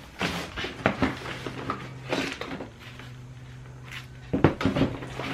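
Items being handled and moved about: a series of short knocks and clatters in the first couple of seconds, another cluster near the end, and a steady low hum in between.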